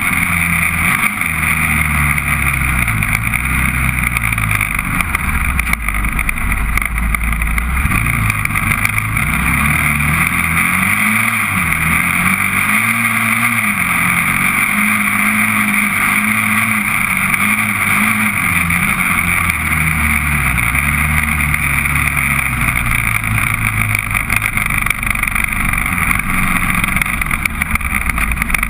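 Honda TRX400EX's single-cylinder four-stroke engine pulling hard, its pitch climbing and dropping back again and again as it shifts up through the gears, with a steady hiss over it.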